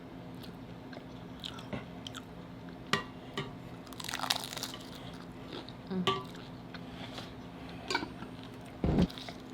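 Bites into spicy hard taco shells and chewing close to the microphone: scattered crunches, with the longest crunch about four seconds in.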